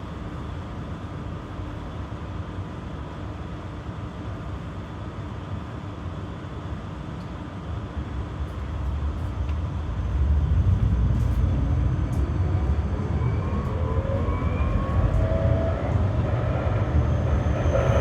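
Interior sound of a Berlin GTZO low-floor tram: a steady hum with a few constant tones at first, then about eight to ten seconds in it grows louder as the tram pulls away, and the traction motor whine rises in pitch as it accelerates.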